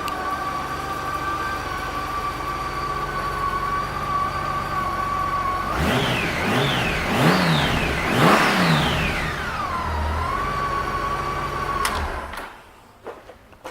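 2006 Honda GL1800 Gold Wing's flat-six engine idling, then revved in four quick blips about six seconds in before settling back to idle. The engine is shut off about twelve seconds in, followed by a few faint clicks.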